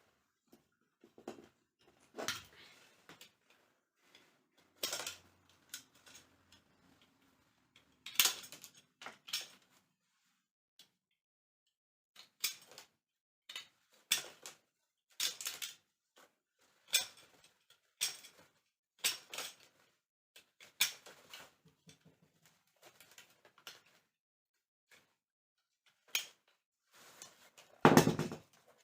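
Irregular short clicks and light knocks, one or two a second, from hand tools and rattan being handled during chair repair work, with a louder knock near the end.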